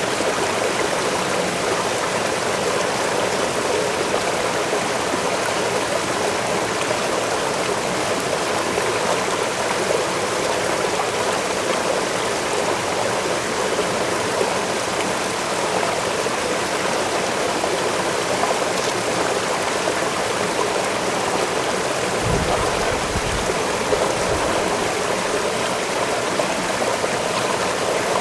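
Waterfall rushing steadily, an even hiss of falling water, with a brief low rumble about 22 seconds in.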